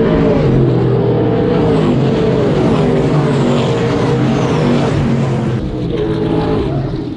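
V8 race car engines running hard on track, their notes rising and falling with throttle and gear changes.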